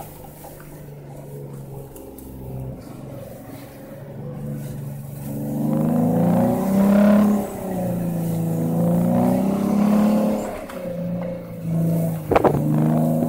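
A 2013 Jeep Wrangler Rubicon's 3.6-litre V6, fitted with an aFe intake spacer and a 3-inch hi-tuck exhaust, is heard from inside the cab while driving in snow. It runs steadily at first, then revs up about halfway through, and its pitch rises and falls with the throttle. There is a sharp knock near the end.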